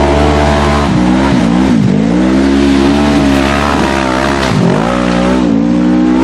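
Off-road side-by-side or quad engine running hard at high revs, its pitch dropping sharply twice as the throttle comes off and climbing straight back as it is reapplied.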